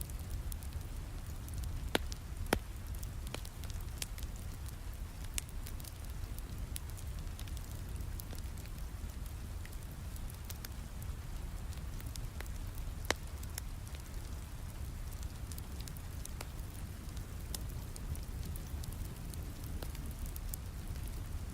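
Steady rain with a wood fire crackling in a fireplace: a continuous low hiss with scattered sharp crackles, and a few louder pops about two seconds in, again half a second later, and about thirteen seconds in.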